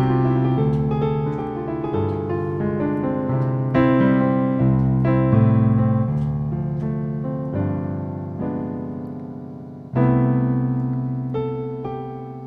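Solo piano playing a passage of chords, each struck and left to ring and fade; a loud new chord is struck about ten seconds in.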